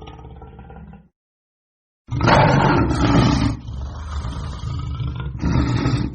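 A big cat roaring: loud, rough roars begin about two seconds in after a second of dead silence, ease off briefly in the middle and come back loud near the end. A fainter, steadier animal sound cuts off abruptly about a second in.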